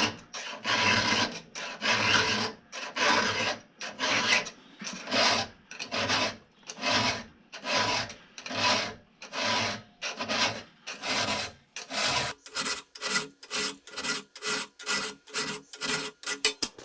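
A 3/16-inch round file rasping across the cutting teeth of a .325 chainsaw chain, hand-sharpening a badly dulled chain. Steady strokes come about one a second, then turn shorter and quicker, about three a second, in the last few seconds.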